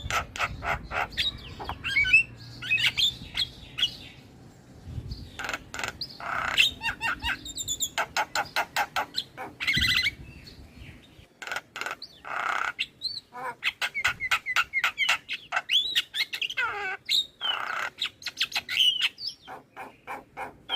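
Javan myna (jalak kebo) chattering song: rapid runs of clicks, harsh noisy notes and whistles that glide up and down, delivered continuously.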